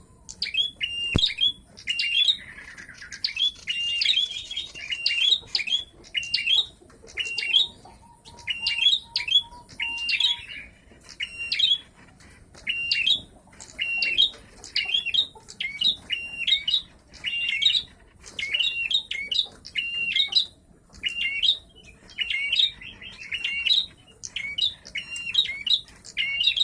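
Red-headed prenjak, a small songbird, calling repeatedly: sharp, high chirps given in short phrases about once a second, with brief pauses between them. This is the call kept for luring wild birds.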